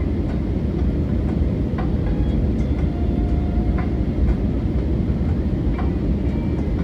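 Airliner cabin noise during landing: a steady low rumble of the aircraft rolling on the runway, with light rattles from cabin fittings.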